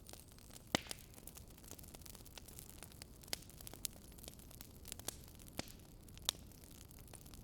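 Faint crackling wood fire: irregular sharp pops, the loudest about a second in and near the end, over a low steady hiss.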